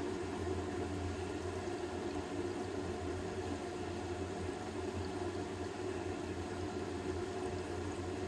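Hoover H-WASH 500 washing machine running steadily on its Cotton 60 programme: a constant mains-type hum with water rushing through it, switched on abruptly just before and holding even.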